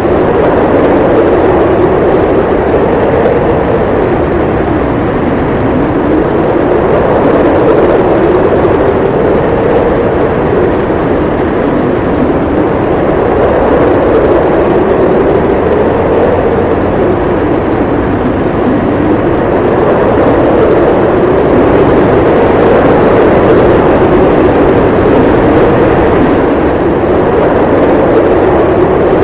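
Howling blizzard wind: a loud, steady rush with a hollow howl whose pitch slowly rises and falls every few seconds.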